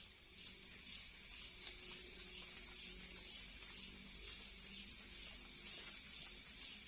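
Faint, steady high-pitched chorus of night insects in a forest.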